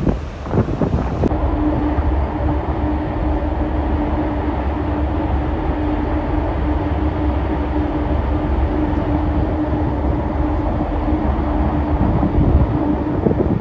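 Steady drone of a ferry's engines heard on board: a low rumble under an even hum.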